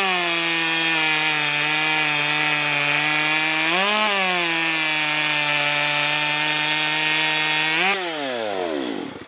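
Ported Stihl MS250 two-stroke chainsaw cutting wood, its engine holding a steady loaded pitch that lifts briefly twice. About eight seconds in it revs once more, then winds down and falls quiet as it is shut off.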